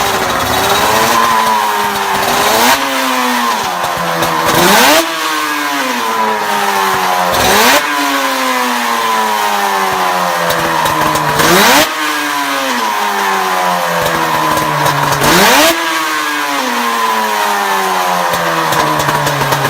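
Two-stroke motorcycle engine running hard. Its pitch slides down over a few seconds, then jumps up sharply with a short loud blast, about five times over.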